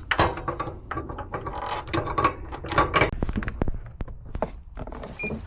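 Handling noise: a quick, irregular series of clicks, taps and knocks as parts are taken off a heat pump unit.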